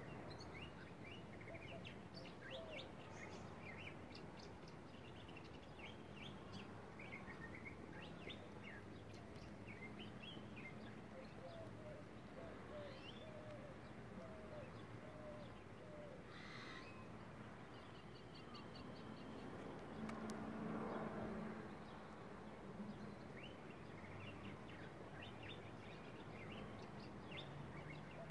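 Faint birdsong: many short high chirps throughout, a run of lower repeated notes about halfway through, and a brief high trill a little later. A soft rush of noise swells up about two-thirds of the way in.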